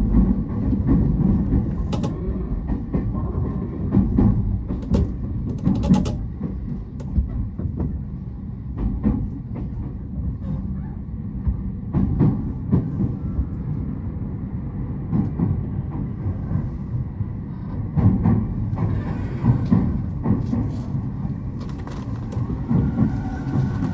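Running noise of a JR Shonan-Shinjuku Line commuter train heard from inside the carriage: a steady low rumble from wheels on rail, with irregular clicks and knocks as the wheels cross rail joints and switches.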